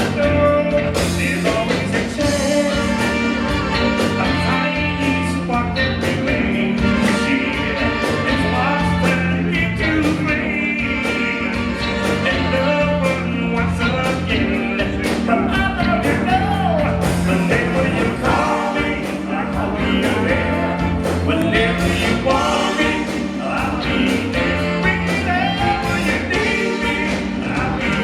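Live disco-soul band playing with singing over a steady bass line and a regular drum beat.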